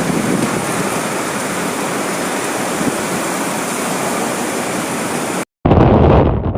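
Steady, loud rushing of water, heavy rain or surf. About five and a half seconds in it cuts off abruptly, and after a brief gap a lower rumbling noise with wind on the microphone takes over.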